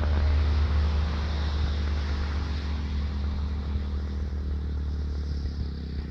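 A radio-controlled model aircraft's engine running steadily as it passes. Its sound sweeps down in the first second and then slowly fades.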